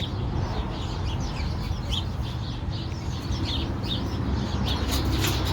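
Rescued birds in an aviary calling: many short, quick chirps over a steady low rumble.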